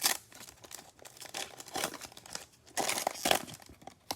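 Crinkling of a trading-card pack wrapper being handled, in short irregular bursts, loudest about three seconds in.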